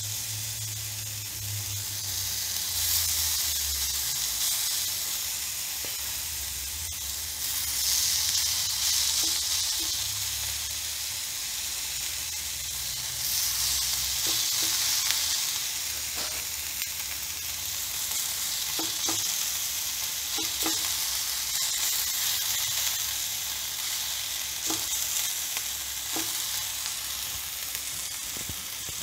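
Grated potato sizzling in hot ghee in a nonstick frying pan as handfuls are added and spread out, making a steady frying hiss that swells and fades in waves.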